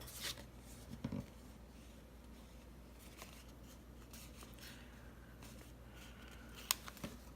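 Quiet handling of a paper planner and sticker sheets: soft rustling with a few light taps, a low knock about a second in and a sharp click near the end.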